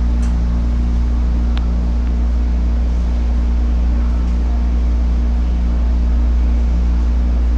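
Steady low hum of an MTR East Rail Line MLR electric train's onboard equipment, heard inside the passenger car while the train stands at a platform with its doors open. A single faint click comes about one and a half seconds in.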